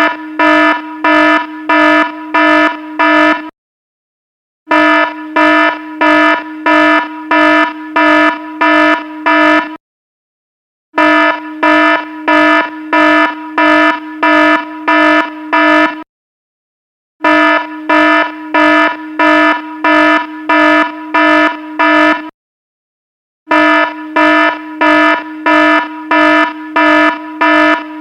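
Electronic alarm beeping in runs of about eight buzzy, low-pitched beeps, with a pause of about a second between runs.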